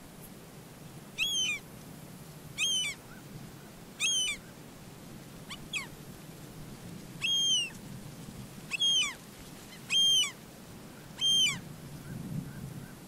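A bird calling over and over: eight short calls, each arching up and then falling in pitch, about one every second and a half, one of them fainter. A steady low rumble lies underneath.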